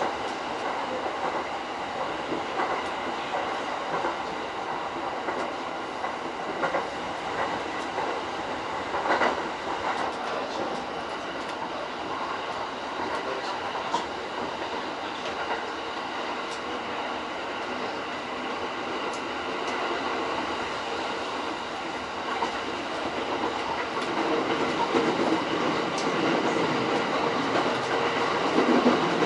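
JR East E231-series commuter train running along the line, heard from inside the leading car: steady wheel-and-rail rumble with repeated clicks over rail joints. It grows a little louder in the last few seconds.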